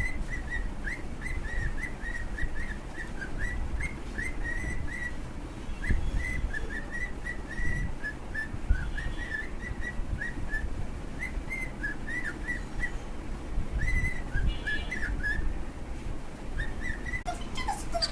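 Pet cockatiel whistling a long, busy run of short chirpy notes at a fairly steady high pitch. Near the end a lower call that glides down and back up cuts in.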